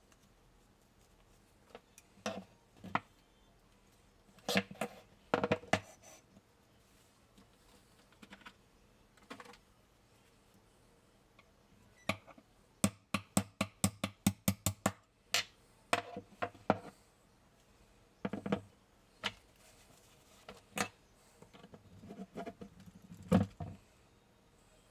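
Metal clicks and knocks from a PPSh-41 submachine gun's parts being handled during disassembly, with a quick run of about a dozen clicks, some five a second, about halfway through.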